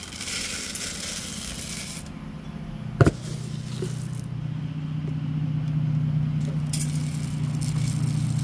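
Rustling and rattling from filling a bird feeder, with one sharp click about three seconds in. Then a steady low engine hum builds and holds, like a car running nearby.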